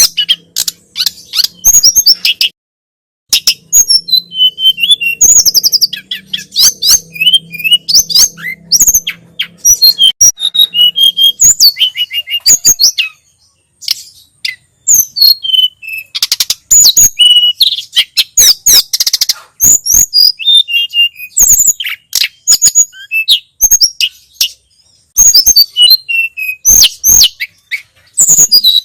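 A tledekan gunung (sulingan gunung) songbird singing loud, rapid, high-pitched chirps and twittering trills in bursts with short pauses. A faint low hum runs under the first third.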